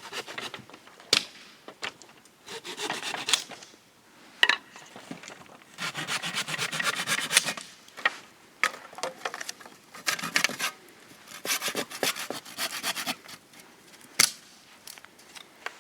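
Rasping, scraping strokes in uneven bursts about a second long, some with a fast gritty texture, and three sharp knocks along the way.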